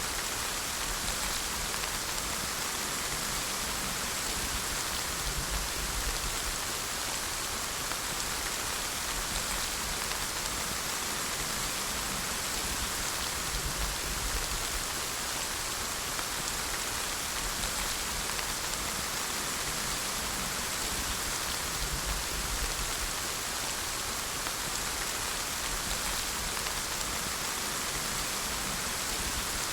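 Steady rain falling, an even hiss of many drops on a surface, with a faint low rumble underneath.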